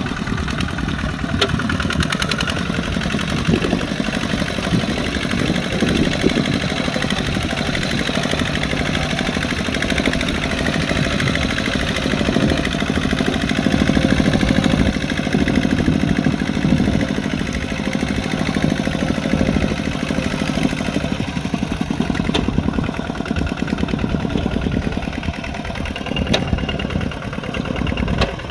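Kubota RT140 Plus single-cylinder diesel engine running steadily on a tractor working a muddy field, its fast, even firing beat getting a little louder about halfway through.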